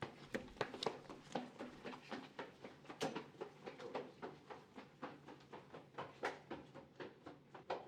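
Footsteps on a hard hallway floor: a quick, uneven run of sharp shoe knocks, several steps a second, in a small reverberant space.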